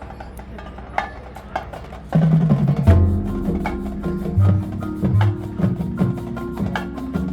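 Marching band music: sparse sharp percussion clicks, then the full band with drums comes in loudly about two seconds in.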